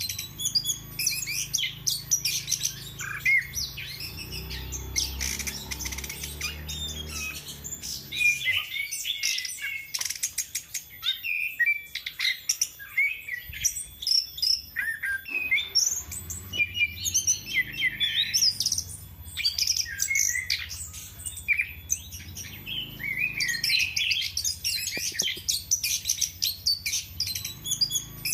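Chestnut-capped thrush (anis kembang) singing in full voice: a rapid, varied, unbroken stream of high chirps, trills and short whistles.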